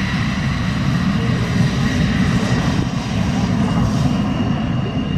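Steady aircraft engine noise, with a faint high whine that fades away within the first second.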